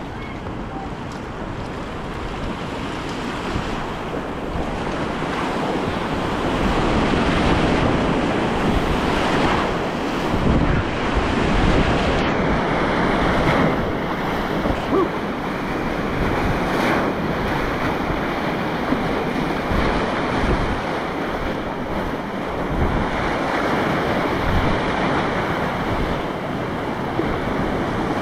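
Rushing whitewater of an artificial rapids channel, a dense rushing noise that builds over the first several seconds and then surges unevenly, with a few sharper splashes close to the microphone.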